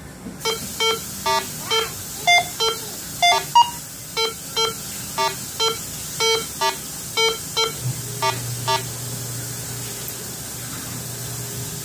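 Minelab Go Find 60 metal detector beeping as a buffalo nickel is swept past its coil: about eighteen short target tones, roughly two a second, mostly on one pitch with a few higher ones mixed in. The beeps stop about nine seconds in, leaving a low steady hum.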